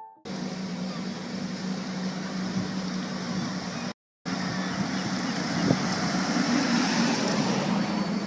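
Steady vehicle noise: an engine hum with a broad rushing hiss, like a car being driven. It breaks off for a moment about four seconds in and then resumes unchanged.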